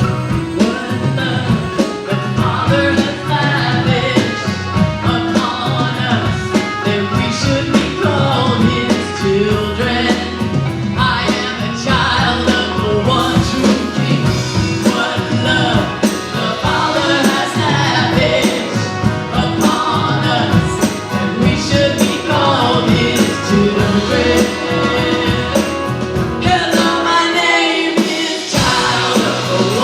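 Live worship band playing an upbeat rock-style song, with singing over the band.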